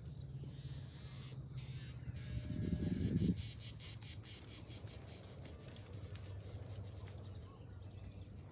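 Steady high-pitched insect chorus of crickets or cicadas over a low background rumble. About two and a half seconds in, a brief low rush of noise rises and cuts off, the loudest moment.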